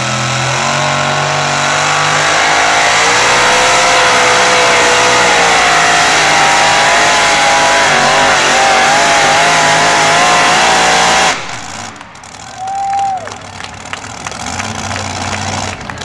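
Alcohol-burning, dry-block pulling truck engine running at full throttle on a pull down the track, its pitch climbing and then wavering, before it cuts off suddenly about eleven seconds in.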